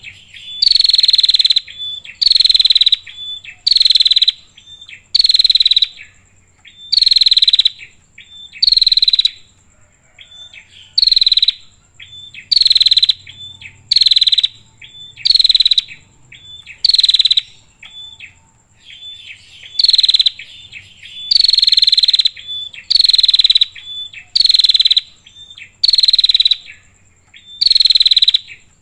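Female prinia (prenjak) calling over and over: loud, buzzy calls about every second and a half, each under a second long, with short softer notes between, pausing briefly twice.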